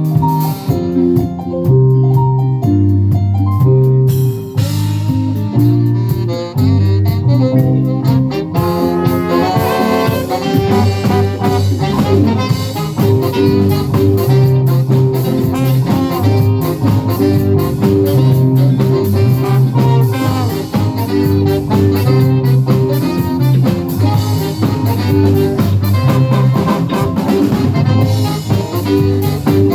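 Live band playing a jazz-flavoured song with saxophone, bass and drum kit; the band fills out after about eight seconds.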